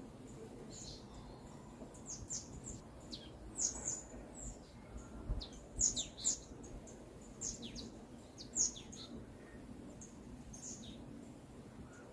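Small songbirds chirping: short, high notes that slide quickly downward, repeated at irregular intervals, over a faint steady low background rumble.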